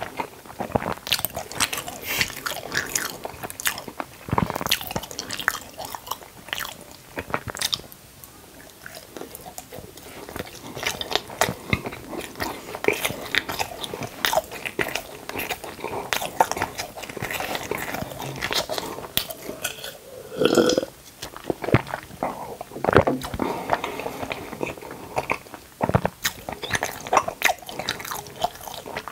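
Close-miked eating: crunchy bites and steady chewing, with irregular sharp crackles as food is bitten and chewed.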